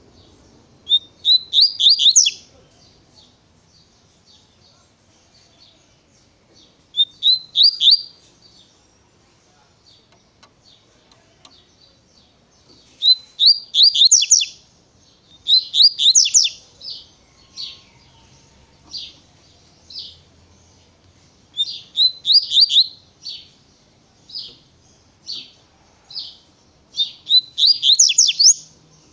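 Double-collared seedeater (coleiro) singing its 'tui-tui' song: six short, fast, high-pitched phrases a few seconds apart, with single sharp notes scattered between the phrases in the second half.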